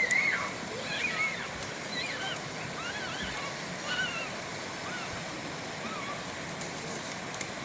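Steady rushing of a flowing river, with faint distant voices over it.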